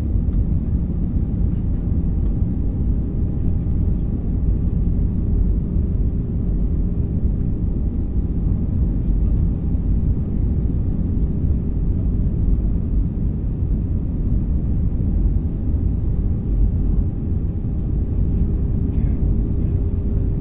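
Passenger airliner cabin in flight: a steady low roar of the engines and the air rushing past the fuselage, with a faint steady hum running through it.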